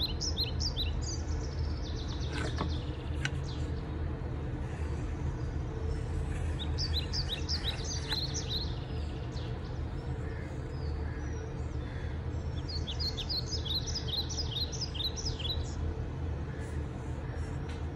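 Small birds chirping in three runs of quick, falling chirps: near the start, about seven seconds in, and from about twelve to sixteen seconds, over a steady low background rumble.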